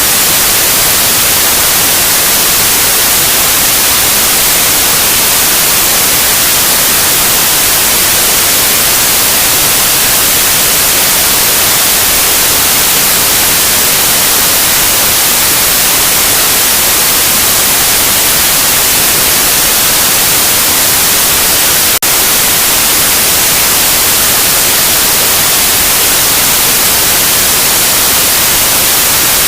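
Loud, steady white noise: an even hiss across all pitches, brightest in the treble, with one momentary dip about two-thirds of the way through.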